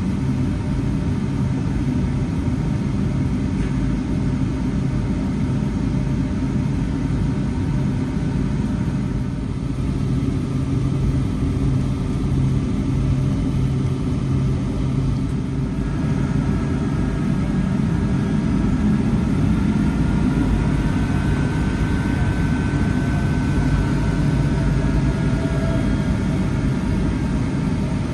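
Steady engine rumble of a Boeing 757-300 airliner heard inside the passenger cabin, with a faint steady whine joining about halfway through.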